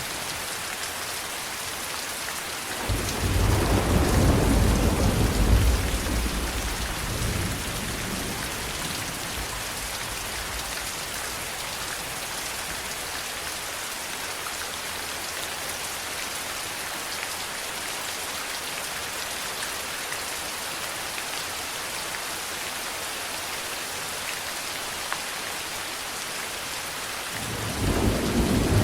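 Steady heavy rain falling, with a deep roll of thunder starting about three seconds in and fading over several seconds, and another rumble building near the end.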